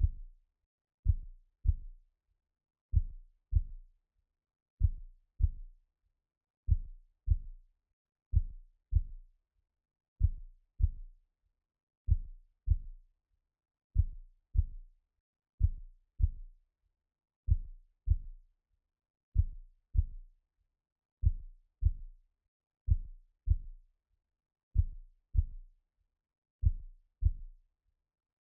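Slow heartbeat-like sound: pairs of soft, low thumps, a lub-dub repeating steadily just under every two seconds, with silence between the pairs.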